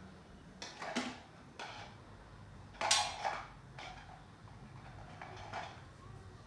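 A series of five short scrapes and knocks from tools and shoe parts being handled during hand work on a sneaker, the loudest about three seconds in.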